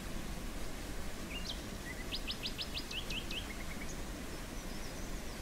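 A small songbird sings one short phrase, a quick run of about six high notes with a few twitters, about two seconds in, with faint chirps again near the end. Under it runs a steady low outdoor rumble.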